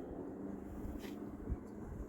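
Steady low engine hum, with a faint click about a second in and a short thump about one and a half seconds in.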